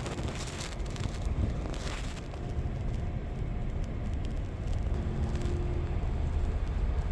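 Car engine and road noise heard from inside the cabin: a steady low rumble with a few light knocks and clicks.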